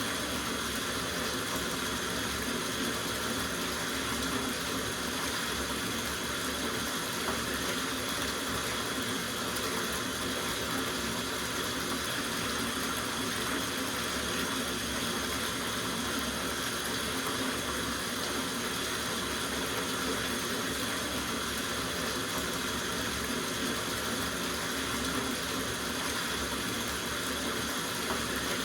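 Tap water running steadily into a soaking bathtub, a constant even rush of water.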